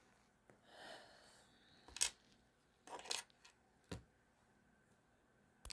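Small metal parts of a ratcheting screwdriver's switch mechanism clicking and tapping as they are handled, a few sharp ticks about a second apart.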